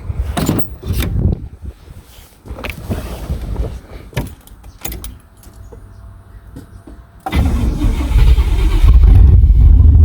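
A few knocks and clicks, then about seven seconds in the 1989 Chevrolet pickup's gasoline engine is cranked and catches, settling into a loud steady run.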